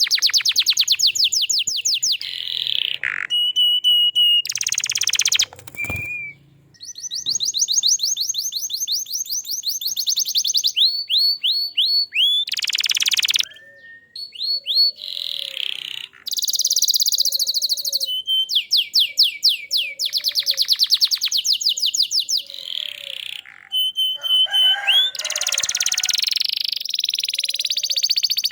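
Domestic canary in full song: long, fast trills of rapidly repeated notes that switch every second or two to rolls of a different speed and pitch, broken by short held whistles.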